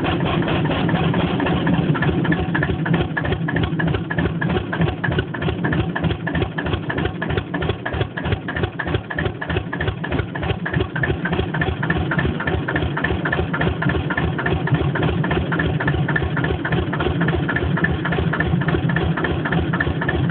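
Deutz F2L514 two-cylinder, two-litre diesel engine running steadily, its exhaust giving a fast, even train of pulses.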